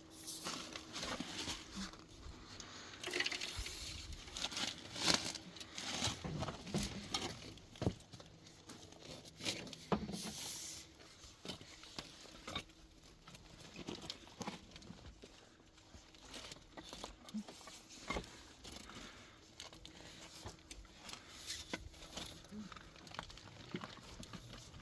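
Irregular rustling and crinkling with scattered light knocks and clicks, busiest in the first ten seconds or so.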